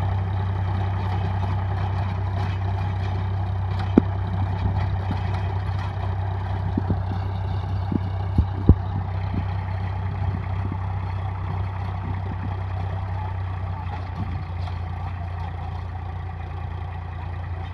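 Tractor engine running steadily while driving a rotavator through the soil, with a few sharp knocks about four seconds in and twice around eight and a half seconds. The sound grows a little fainter toward the end.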